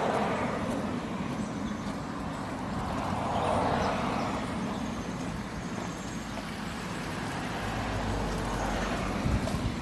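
Road traffic: vehicles passing, their noise swelling and fading about three times.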